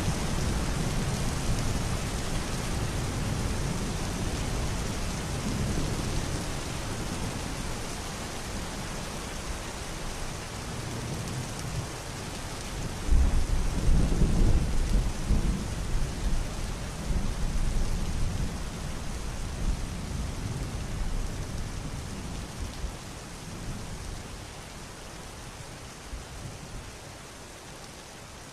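Steady rain with low rolling thunder. The rumble swells about halfway through and then slowly dies away.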